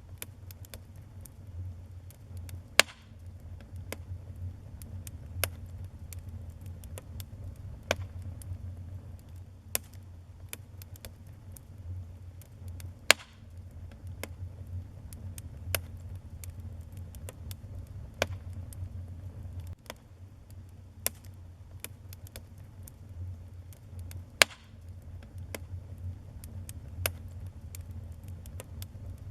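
Wood fire burning in a fireplace: irregular sharp crackles and pops, a few much louder than the rest, over a steady low rumble of the flames.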